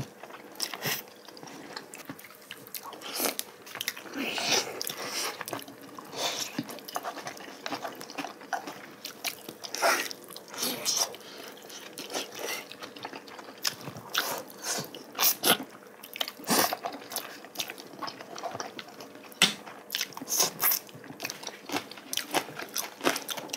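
Close-up eating sounds: chewing and crunching of braised oxtail and seasoned garlic chives, with irregular clicks of chopsticks and dishes.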